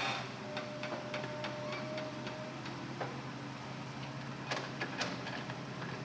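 Hitachi Zaxis excavator running with a steady low engine hum, over which come scattered sharp clicks and knocks, two louder knocks close together near the end.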